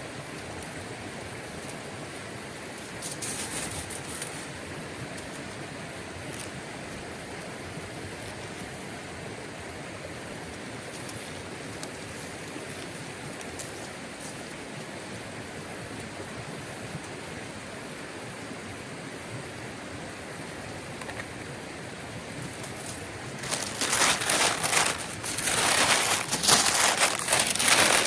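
Steady rush of running water from a mountain stream. From about 23 seconds in, loud irregular rustling and crinkling handling noises come in over it.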